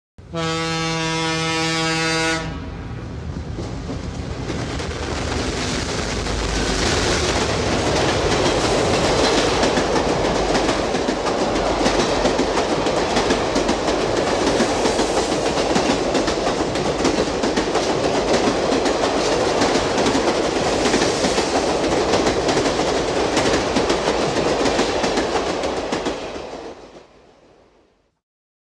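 A train horn sounds one steady blast for about two seconds, then a train runs on steadily before fading out near the end.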